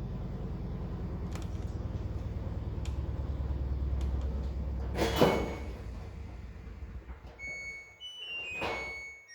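A low, pulsing motor-like drone that grows louder over the first few seconds, then fades after a loud bang about five seconds in. Near the end, piano-like notes begin, with another thump.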